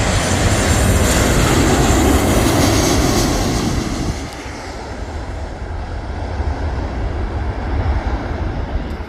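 Jet airliner on landing approach passing low overhead: a loud engine roar for the first few seconds that dies away after about four seconds into a fainter rumble.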